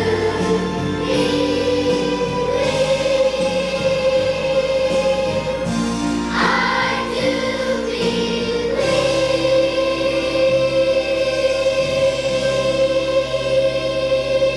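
Children's choir holding one long final note at the end of a Christmas song, over instrumental accompaniment whose chords change about halfway through; the held note stops at the very end.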